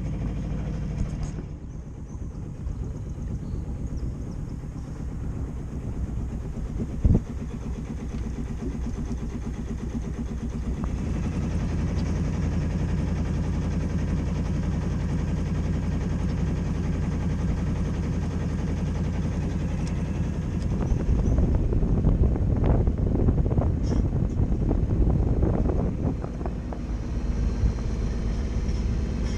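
Sailboat's engine running steadily while motoring under way, a low hum with one sharp knock about seven seconds in. The sound grows louder and rougher for a few seconds near the end.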